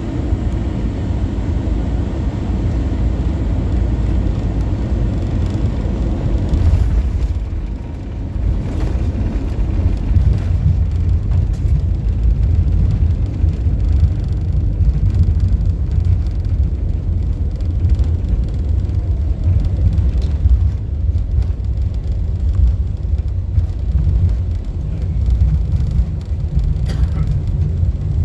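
Airbus A321-200 airliner cabin noise: a steady, deep rumble of engines and airflow during the landing approach. The rumble shifts about eight seconds in, dipping briefly and then going on heavier and lower.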